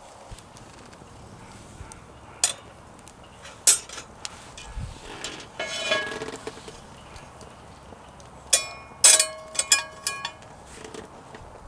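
Knocks and clinks of camp cooking gear: a few single knocks, then a quick run of clinks about two-thirds through, several of them leaving a short ring.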